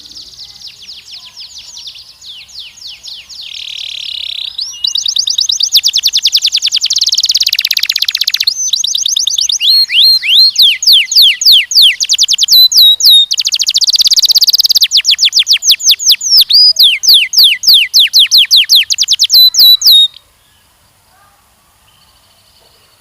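Canary singing a long song made of fast trills, each a run of quick, identical sweeping notes. The song gets louder about five seconds in and stops abruptly near the end.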